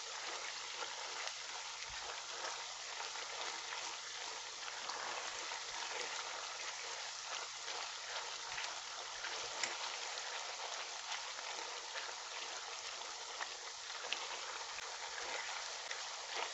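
Tomato paste, onions and blended spices frying in vegetable oil in a pot: a steady, even sizzle as the water in the tomatoes cooks out. Light scattered ticks come from a silicone spatula stirring the pot.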